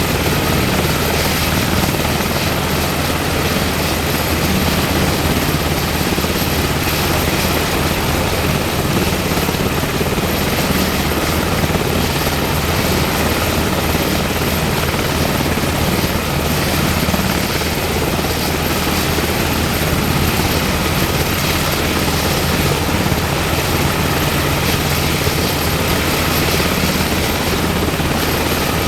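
UH-60M Black Hawk helicopter running steadily, its twin turboshaft engines and rotor making an even, loud noise with a thin high whine above it.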